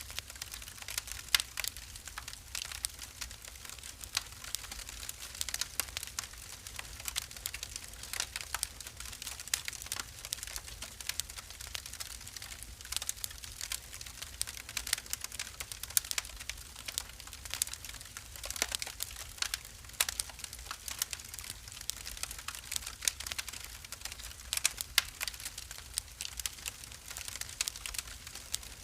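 Wood fire in a fireplace crackling: a steady stream of irregular sharp snaps and pops, some louder than others, over a low steady rumble.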